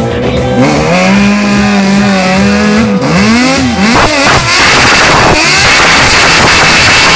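Sport motorcycle engine held at high revs, then blipped up and down a few times; about four and a half seconds in, loud steady tyre noise from the rear wheel spinning in a burnout takes over.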